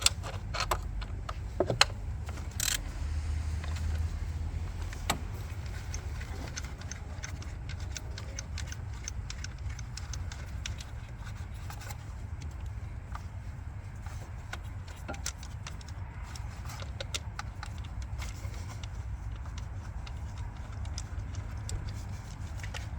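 Light metallic clicks and clinks of a socket wrench and tools working the 10 mm ignition-coil bolt on a 5.7 Hemi V8, with a few sharper clinks in the first three seconds, over a steady low rumble.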